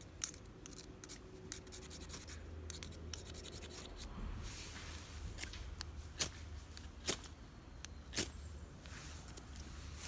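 Scratchy rubbing and scraping from hand fire-lighting work, with scattered sharp clicks and a couple of longer scraping spells.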